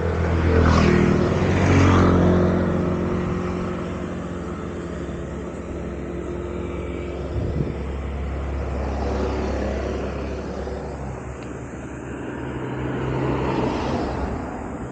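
Yamaha MT-15 motorcycle's single-cylinder engine and exhaust running under way, loudest in the first couple of seconds, then steadier, swelling again near the end, with wind rushing over the microphone.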